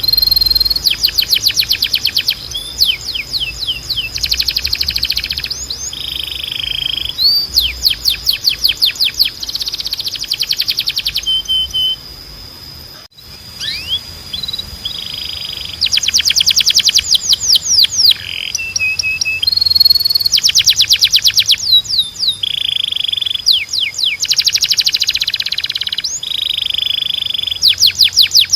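Timbrado canary singing: fast trills of rapidly repeated notes and quick whistled glides in phrases of a second or two, with a brief lull about halfway through.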